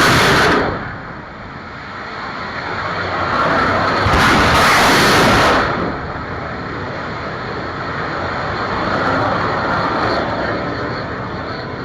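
Kalibr cruise missile launch: a sudden loud roar as the booster fires, which carries on as a long rushing roar and swells again about four seconds in.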